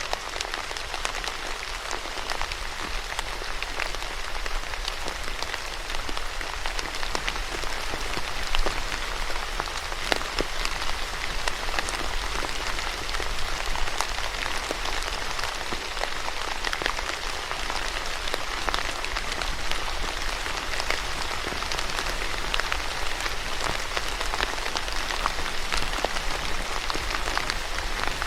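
Steady rain falling, a continuous hiss with many separate drops ticking on a hard surface.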